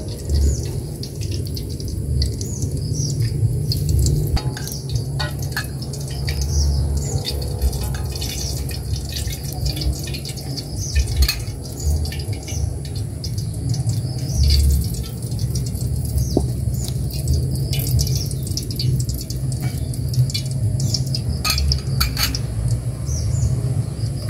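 Birds chirping again and again over a steady low rumble, with a few light clicks scattered through.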